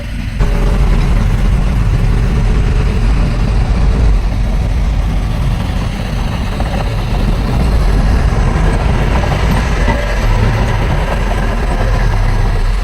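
Heavy diesel engine of earthmoving machinery running steadily with a deep rumble, jumping abruptly louder about half a second in.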